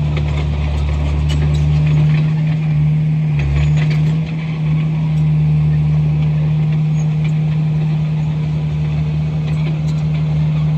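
Komatsu bulldozer's diesel engine running at a steady pitch, with light clicks and rattles over it and a brief dip in the engine note about four seconds in.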